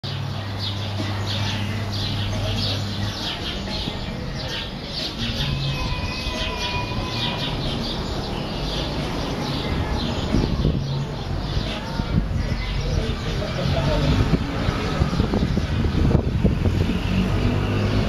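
Small birds chirping in quick, repeated short calls through the first half, over a low steady rumble that grows rougher and louder in the second half.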